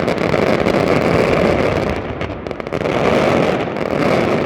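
Dense barrage of aerial fireworks: rapid bangs and crackles run together into one continuous loud sound, easing briefly about two seconds in.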